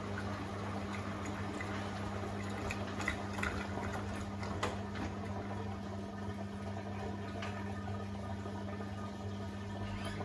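Beko WTK104121A washing machine mid-cycle: water sloshing in the turning drum over a steady low hum.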